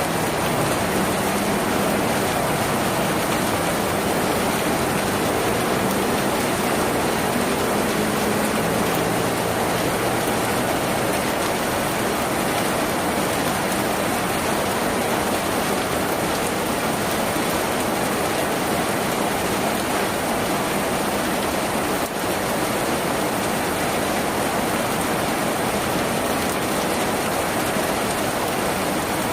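Rain falling on a tin roof: a steady, dense patter of drops that does not let up.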